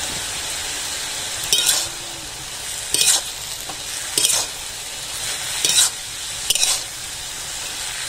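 Chopped water lily stalks sizzling in hot mustard oil in an aluminium karai (wok), with a flat spatula scraping and turning them about five times.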